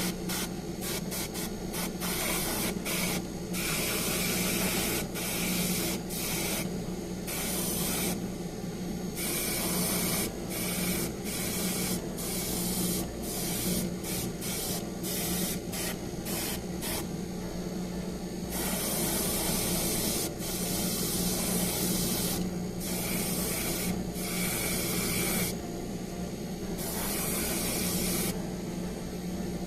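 Paint being sprayed onto model-kit parts in on-off bursts of hiss, many short quick puffs at first, then longer passes of a few seconds, over a steady low hum.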